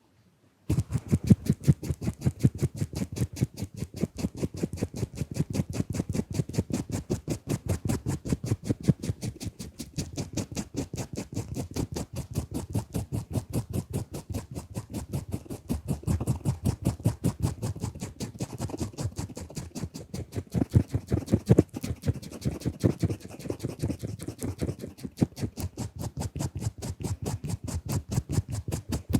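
Fast, scratchy drawing strokes of a tool rubbed directly on the camera lens, several strokes a second in a steady rhythm, starting about a second in.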